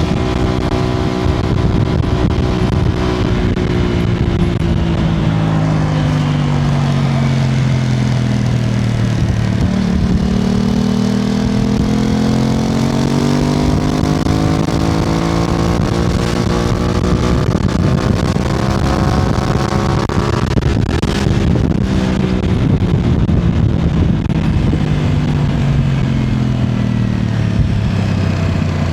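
Aprilia RS660's parallel-twin engine heard from the rider's seat, its pitch sinking as the bike slows for the first third. It then climbs steadily as the bike accelerates, with a brief break just after the climb, and sinks again near the end.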